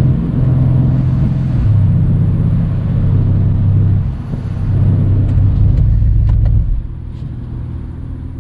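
Mercedes-AMG C63's twin-turbo V8 running at low road speed, its deep exhaust note dropping in pitch a few times, then falling to a quieter, steady rumble about seven seconds in.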